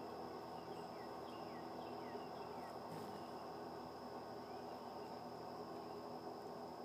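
Garden ambience: a steady high-pitched tone over a constant low hum. Short, quick downward-sliding bird chirps come in a run during the first few seconds and again briefly around five seconds in.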